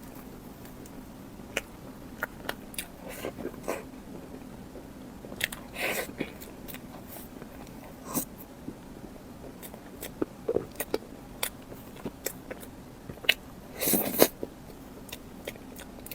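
Close-miked eating: bites and chewing, with many short, sharp crisp clicks of mouth and food. Two longer, louder crunching bursts come about six seconds in and again about fourteen seconds in.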